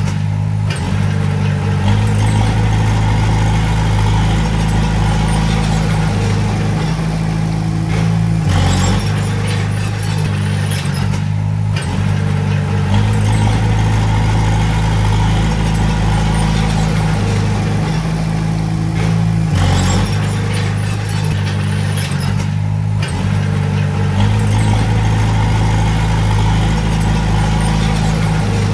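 Heavy-equipment diesel engine running steadily at working speed, its note shifting up and down a few times as the load changes.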